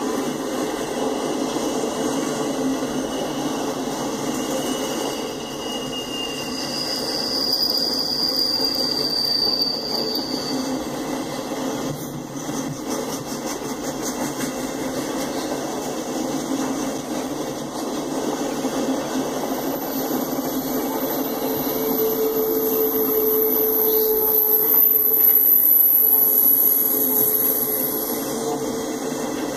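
Autorack freight cars rolling past on steel rails: a steady rolling noise of wheels on track, with thin high-pitched wheel squeals about a quarter of the way in and again through the last third.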